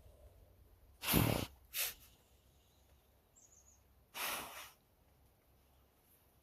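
Dog sniffing and snorting at the ground in a few short blasts of breath: a loud one about a second in, a brief one right after, and another about four seconds in.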